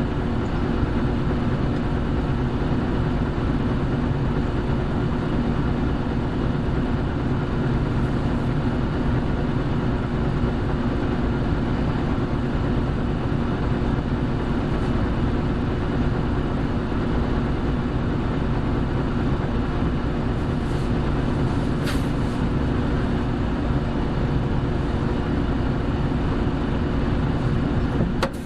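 Hino Blue Ribbon City hybrid city bus running at a steady pace, its diesel engine note and road rumble holding even, with one brief click about three-quarters of the way through.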